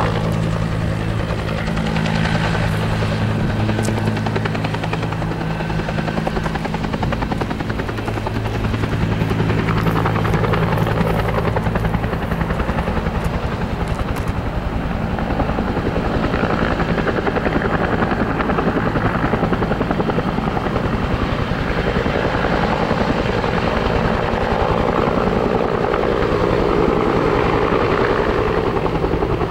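Firefighting helicopter's rotor and engine running steadily as it hovers low to fill its water bucket. A steady low hum fades out about twelve seconds in, and the rotor noise grows fuller after that.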